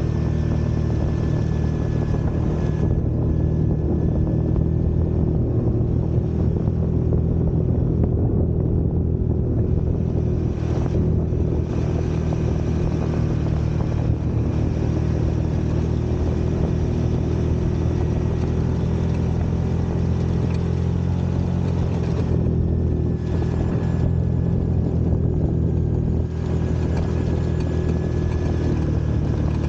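Off-road vehicle engine running steadily under way, a continuous drone that holds nearly the same pitch throughout.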